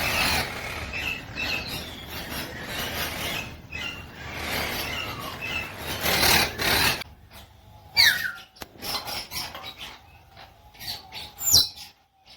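Pet parrots calling: about seven seconds of loud rasping, scratchy chatter mixed with short chirps, then a few sharp, sliding calls, one falling in pitch about eight seconds in and one rising near the end.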